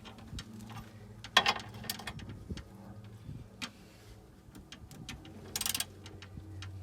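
Scattered clicks and clinks of hand tools on metal during a car suspension repair. There are two short scraping noises, one about a second and a half in and one near the end, over a steady low hum.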